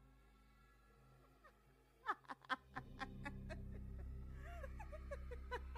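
Low background music drone with laughter as a sound effect coming in about two seconds in: a quick run of short falling 'ha' sounds over a swelling low hum.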